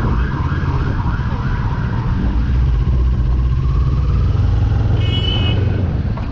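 Vehicle road noise with a steady low rumble, a wavering tone in the first few seconds, and a short high-pitched beep about five seconds in.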